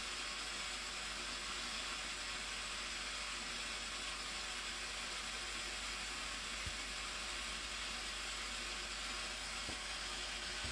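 Waterfall's steady rushing roar at the Blue Nile Falls, an even hiss of falling water that does not change.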